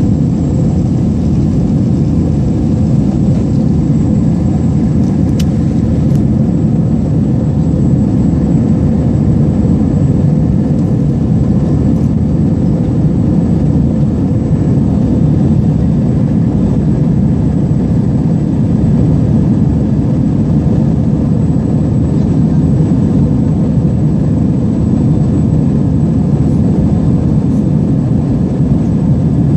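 Jet airliner cruising, heard from inside the passenger cabin: a steady, low-pitched wash of engine and airflow noise that holds even throughout.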